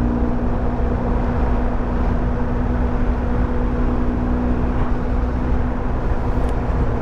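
Motorcycle running at a steady speed, its engine holding a steady note under a constant rumble of wind and road noise.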